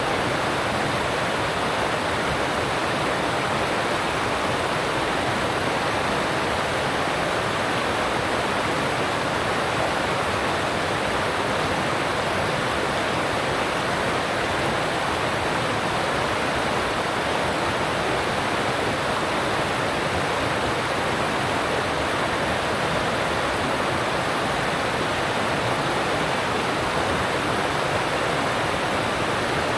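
Alpine mountain stream rushing steadily over rocks: a constant, even rush of water with no breaks.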